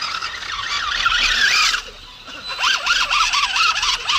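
Electric motor and gearbox of an RC rock crawler whining, the pitch sweeping up and down rapidly as the throttle is worked. The sound drops away for about half a second just before the middle, then comes back.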